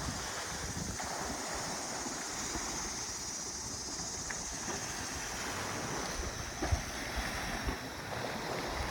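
Small lake waves washing onto the Lake Erie shore, a steady wash, with wind gusting on the microphone.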